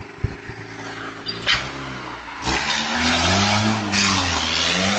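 A car accelerating hard, its engine revving up and down in pitch, with a loud rush of tyre and road noise building from about halfway in.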